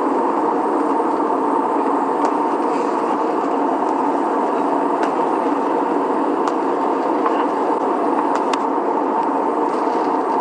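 Loud, steady rushing drone with a few faint clicks, like the running noise heard inside a vehicle; it cuts off suddenly at the end.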